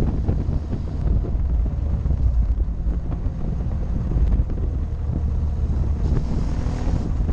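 Motorcycle under way: wind buffeting the action camera's microphone over the steady drone of the engine.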